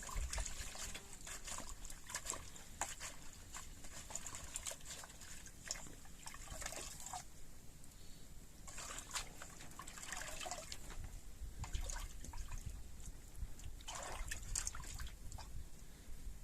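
Water trickling and splashing in short spells, with small clicks and taps among it.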